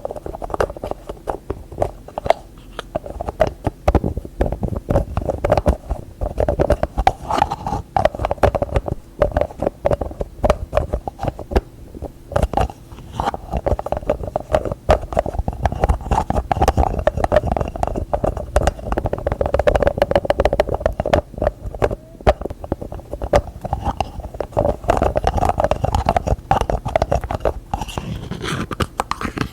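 Fast, continuous ASMR tapping with fingertips and nails on objects and lids, many taps a second.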